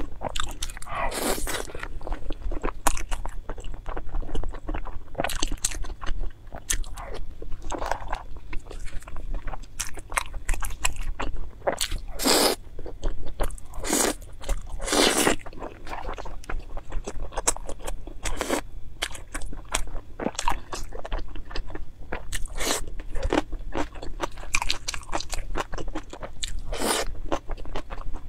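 Close-up chewing and biting of chilli-sauced skewered food: a steady run of crunching and moist mouth clicks, with several louder bites along the way.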